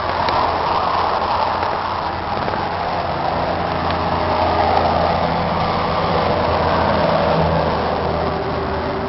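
John Deere 2950 tractor's six-cylinder diesel engine running steadily.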